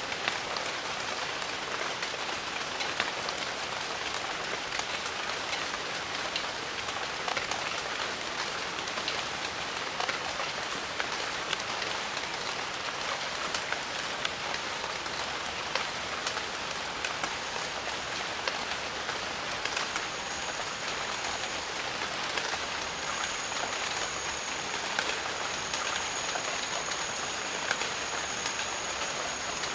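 Steady rain in a jungle: a dense, even hiss with many individual drops ticking through it. A thin, high, steady tone comes in about two-thirds of the way through and holds.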